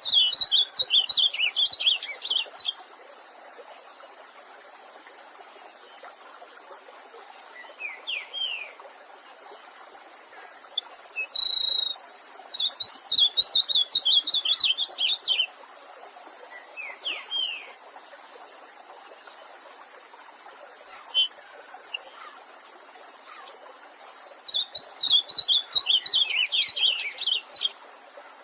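A songbird singing in three bouts of rapid, high, quick-fire notes about twelve seconds apart, with a few short calls between them, over a steady rush of a stream.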